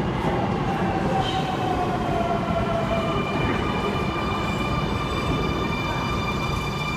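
Sydney Trains M set (Millennium) electric train running into the platform as it slows: steady rumble and rail hiss, with a falling electric whine over the first few seconds, then a steady set of high whining tones.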